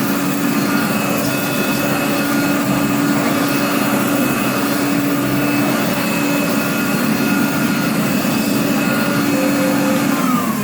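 1985 Hotpoint Electronic De Luxe 3680 vacuum cleaner running steadily on a carpet, picking up sand in a timed pickup test. Near the end it is switched off and the motor winds down in pitch.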